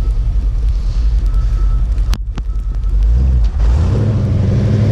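Vehicle engine running with a low rumble. About three and a half seconds in, it picks up a steady, louder droning note as it accelerates.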